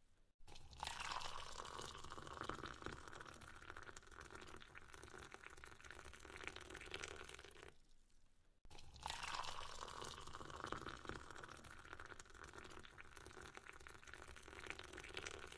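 Metal ladle scooping milkfish and broth out of a pot of sinigang soup: faint sloshing of liquid with small clinks and scrapes of the ladle against the pot, broken by a short silence a little past halfway.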